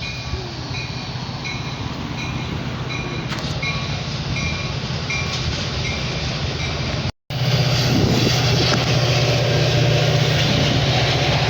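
Railroad warning bell dinging steadily, about once every 0.7 s, over the rumble of a train. After a break about seven seconds in, a louder steady low locomotive drone takes over.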